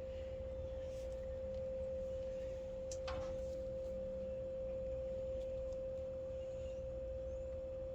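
A steady, unwavering pure tone a little above 500 Hz, over a low rumble, with a short knock about three seconds in.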